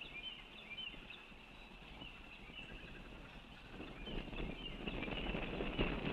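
Birds giving repeated short, high chirps, with a rough rustling noise growing louder from a little past halfway.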